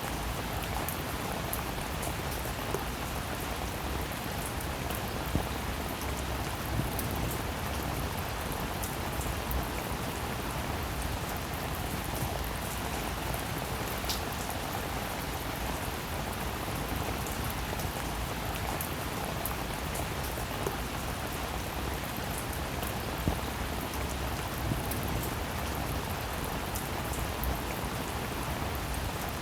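Steady rainfall, an even hiss of rain with many sharp ticks of individual drops striking close by and a few louder single drops now and then.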